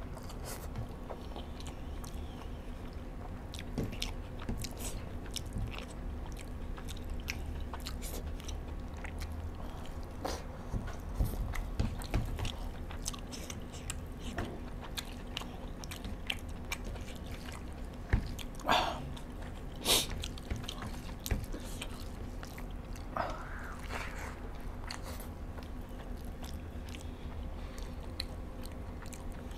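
Close-miked eating sounds: a man chewing rice and chicken curry, with scattered wet mouth clicks and smacks and a few louder smacks a little past the middle.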